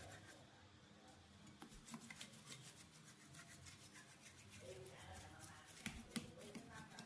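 Faint rubbing and scraping with scattered small clicks from hand work, a few sharper clicks near the end.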